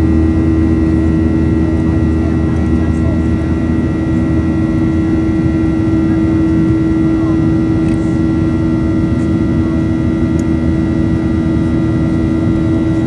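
Boeing 737-800's CFM56 jet engines heard from inside the cabin: a steady, loud drone with a strong unchanging hum tone over an even rumble.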